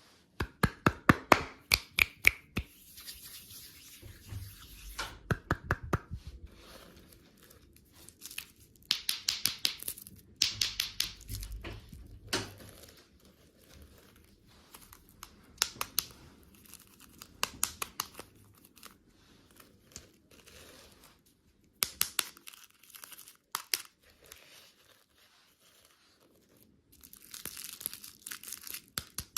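Plastic candy packaging crinkling and tearing in repeated bursts, with runs of sharp clicks and quieter pauses between them.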